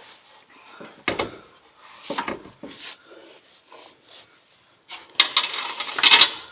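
Light metal clicks and scrapes of exhaust flange bolts and nuts being fitted by hand, with a louder stretch of rattling and rasping about five seconds in.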